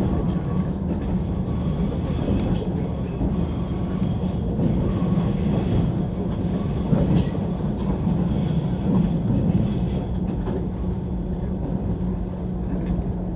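A JNR/JR East 185 series electric train running, heard from inside the passenger car: a steady rumble with a few short clicks from the wheels over the track.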